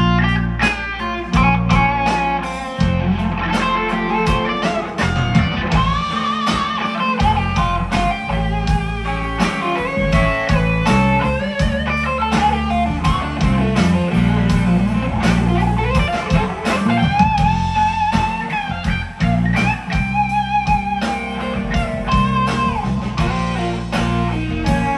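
Live band playing an instrumental break: a lead electric guitar solo with bent, wavering notes over a steady bass line and a regular drum beat.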